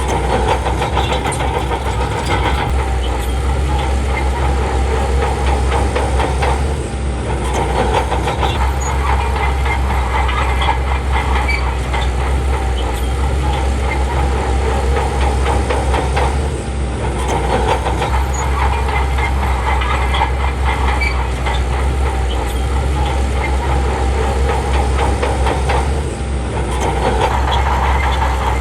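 Bulldozer's diesel engine running hard with steady clanking from its steel tracks, easing off briefly three times, about every ten seconds.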